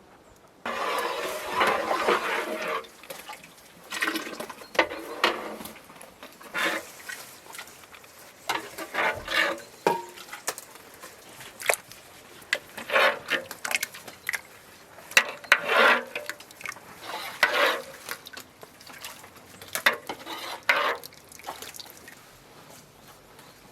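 Pots, dishes and utensils being handled with liquid sloshing, in a string of short irregular bursts with sharp clinks, starting abruptly about a second in.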